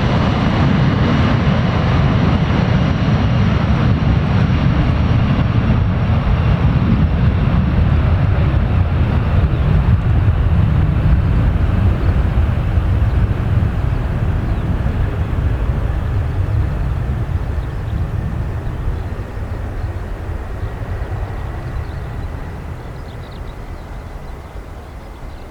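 Boeing 737-400 airliner's CFM56 turbofan engines at takeoff power, a deep rumble. It holds steady, then fades away over the last half as the jet climbs out.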